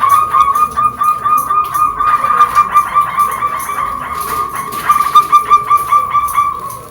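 A bird calling in rapid repeated notes on a steady pitch, several notes a second, fading near the end.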